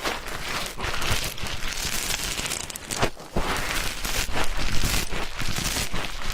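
Ear pick scratching and scraping in an ear, recorded very close: dense crackling scratches with a few sharper strokes, one of them about three seconds in.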